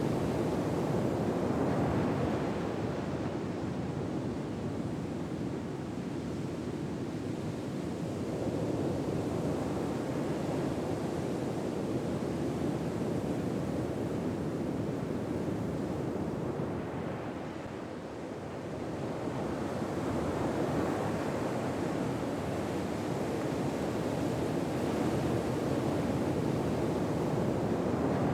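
Ocean waves washing on a shore, a steady surf noise that swells and eases slowly, with a lull about two-thirds of the way through before the next wave builds.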